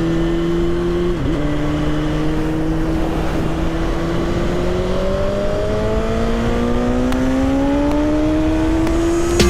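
Motorcycle engine under way, heard from on board: a quick gear change about a second in, then the engine note climbs steadily as the bike accelerates.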